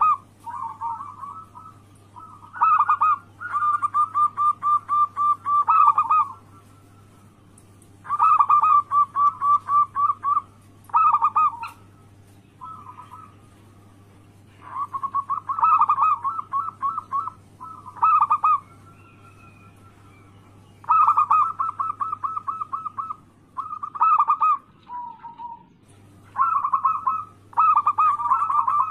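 Zebra dove (perkutut) cooing in repeated phrases of rapid, trilled coos. Each phrase lasts one to three seconds and is separated by short pauses. This is the local perkutut's song used as a lure to get other perkutut to answer.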